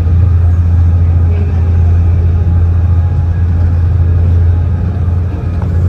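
Water shuttle boat's engine droning steadily under way: a loud, even low hum with a haze of noise over it.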